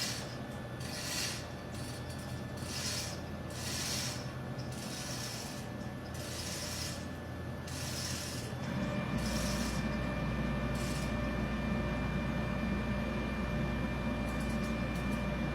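Hand-chain hoist (chain fall) being pulled in repeated strokes, its chain rattling and clicking through the ratchet about once a second. About nine seconds in the pulling stops and a steady low machinery hum sets in.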